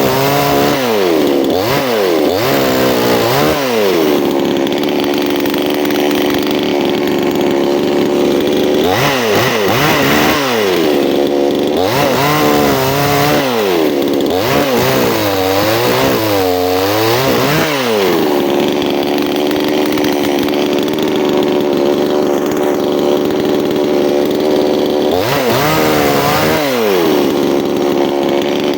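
Chainsaw engine running steadily at high revs, its pitch dropping and climbing back again and again near the start, through the middle stretch and once more near the end.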